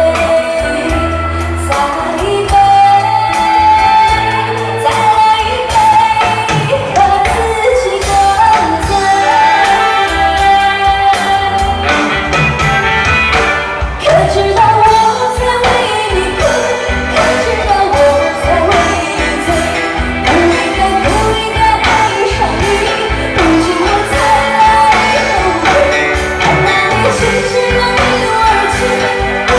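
A singer singing a pop song over a backing track with a steady drum-and-bass beat.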